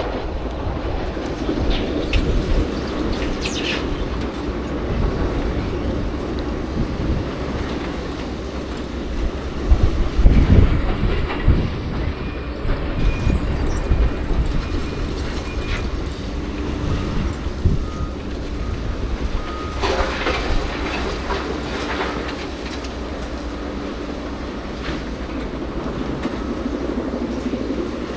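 A train passing on the railway line, its wheels clattering over the rails with a steady rumble that swells about ten seconds in, and a few brief high wheel squeals.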